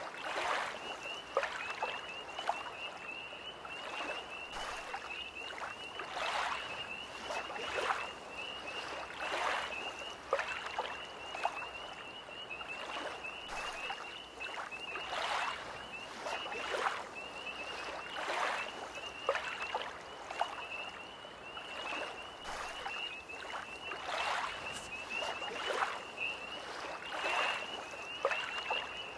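Small lake waves lapping at the shore, a soft splash every second or two. Over them, tree frogs keep up a continuous high, warbling trill at one steady pitch.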